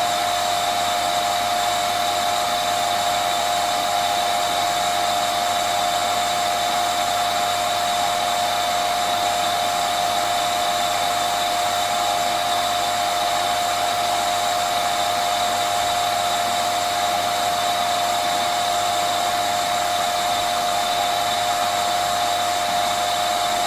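Vacuum cleaner running steadily: a constant motor whine over a rush of air, with no change in pitch or level.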